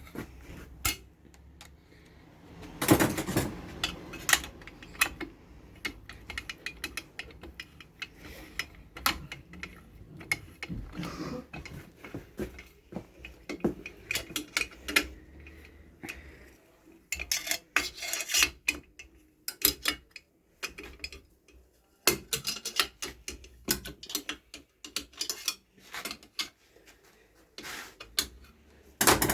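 Hand tools and bolts clicking and clinking against metal as the exhaust muffler bolts are fitted to a Stihl MS 361 chainsaw, in irregular runs of short sharp clicks.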